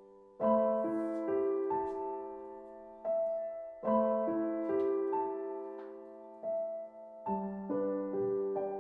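Soft background piano music: slow chords and single notes, each left to ring and fade before the next is struck.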